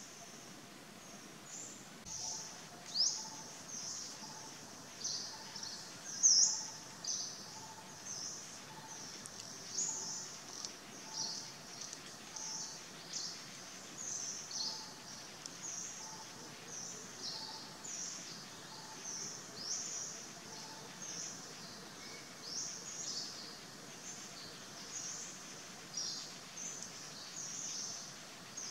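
Forest birds chirping: a steady stream of short, sharp, high chirps, about two a second. Under them a soft, lower note repeats evenly and stops about two-thirds of the way through.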